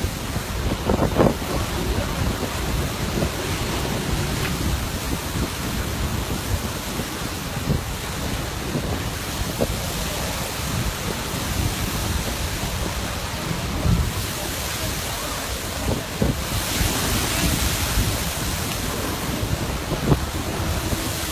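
Steady wind buffeting the microphone over a continuous rush of surf, with a few brief thumps and a stretch of brighter hiss in the second half.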